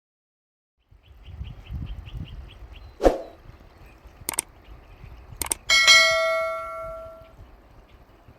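A bell struck once about five seconds in, ringing and fading over about a second and a half. Before it come faint rapid ticking, a short sharp sound about three seconds in, and two clicks.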